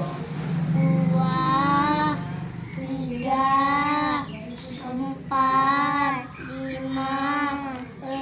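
A high, child-like voice singing a slow tune in long held notes, about one note a second with short breaks between.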